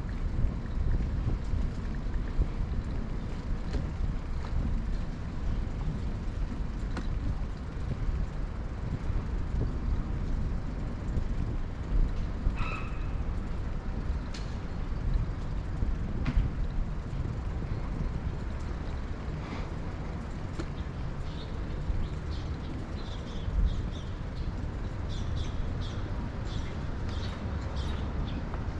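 Wind buffeting the microphone and road rumble while riding a bicycle along city streets, with scattered clicks, one brief pitched squeak about halfway through and a run of short high chirps or ticks near the end.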